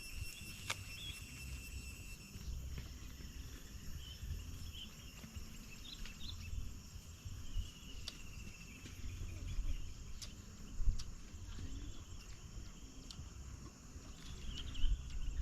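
Insects trilling in a steady high tone, with scattered short bird chirps and a constant low rumble.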